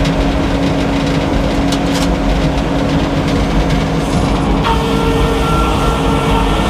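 Old Frick sawmill running steadily under power with a constant low hum. A little over four and a half seconds in, a steady higher whine joins in.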